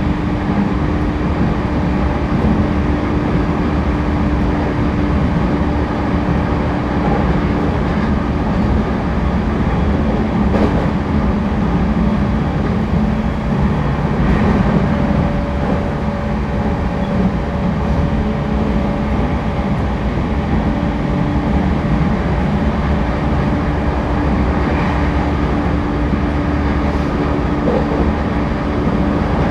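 Cabin running sound of a JR East E231 series 1000-subseries (refurbished) electric train at speed: a steady rumble of wheels on rail with a constant low hum and a few faint clicks.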